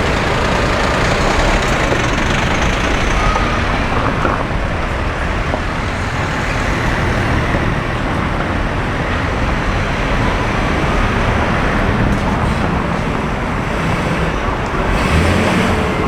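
Road traffic: a steady rumble of car and bus engines and tyre noise, with no single vehicle standing out.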